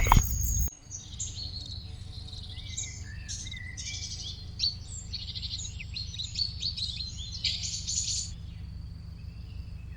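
Several birds singing in the bush, a mix of quick chirping trills and short whistled calls, over a steady low rumble.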